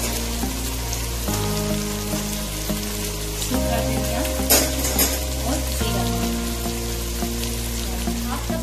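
Chicken and onions sizzling in hot oil in a pot, with two light knocks near the middle as spices go in. Background music with slow chord changes plays underneath.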